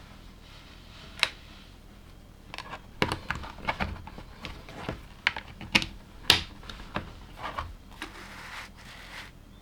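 LEGO plastic pieces clicking and clattering as they are handled and pressed together, in a series of irregular light clicks with the sharpest about six seconds in.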